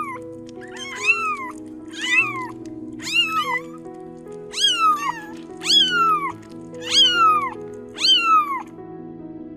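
Domestic cat meowing repeatedly, about eight meows roughly a second apart, each rising briefly and then falling in pitch.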